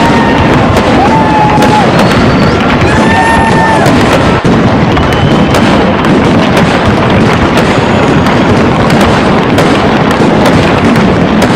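Fireworks going off continuously and loudly: a dense crackle of bangs, with several whistling fireworks in the first few seconds.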